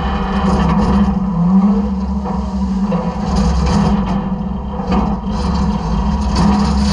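Side-loader garbage truck's engine and hydraulics running with a steady low hum, the pitch rising briefly about a second and a half in, with scattered knocks of trash in the hopper.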